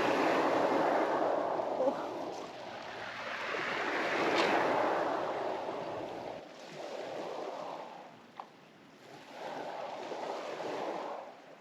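Sea waves washing in and drawing back, several swells that rise and fall, with a short tick a little past two-thirds through.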